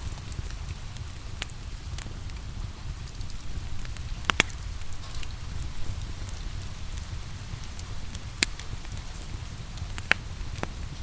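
Wood fire crackling in a fireplace, with scattered snaps and three louder pops, over a steady hiss of rain.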